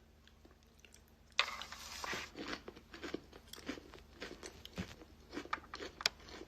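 Close-up crunchy chewing of salad, mouth near the microphone, starting about a second and a half in as a quick run of crisp crunches.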